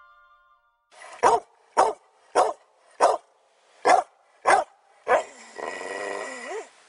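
A dog barking seven times, roughly one bark every half second, then a longer, drawn-out call with a wavering pitch near the end.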